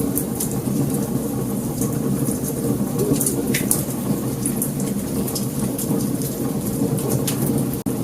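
Wood fire burning, with frequent sharp crackles and pops over a steady low rumble of flames. The sound drops out for an instant near the end.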